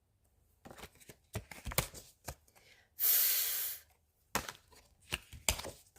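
A woman's voice holding the phonics sound /f/ as a long hissing "fffff" near the middle, among scattered light clicks and taps.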